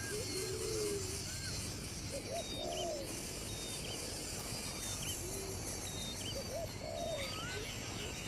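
Wild birds calling over a steady high background hiss. Low drawn-out notes recur every couple of seconds, mixed with short, higher whistled chirps.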